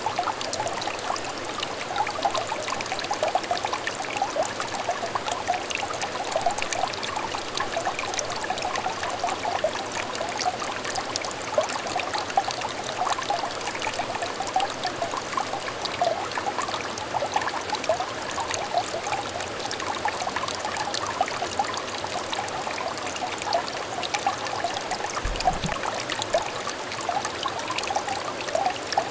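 Small trickle of water running steadily into a stream, a continuous babbling with many quick gurgling splashes. A brief low thump comes about 25 seconds in.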